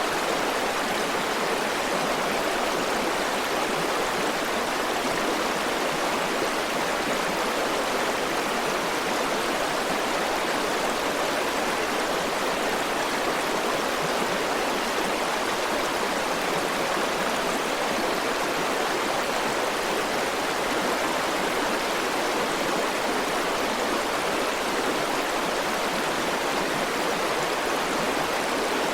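River water flowing steadily over stones, an even rushing sound with no breaks or changes.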